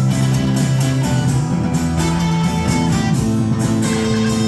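Live band playing an instrumental passage of a song, with strummed guitar to the fore.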